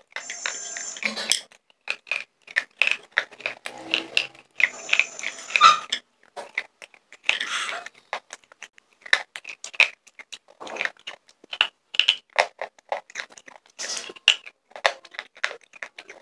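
Close-miked crunching and chewing of clay slate pencils: many sharp, irregular crunches and bites.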